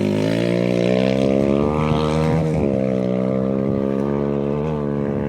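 Off-road rally vehicle engine running steadily close by, its pitch rising slightly about a second and a half in and dipping briefly around two and a half seconds.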